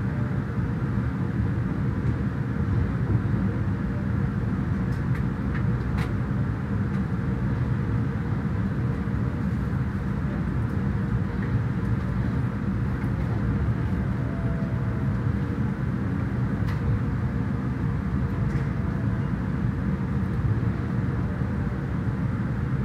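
Steady low rumble of an E257-series electric train running slowly into a station, heard from inside the passenger car, with a few faint clicks from the wheels over the rails.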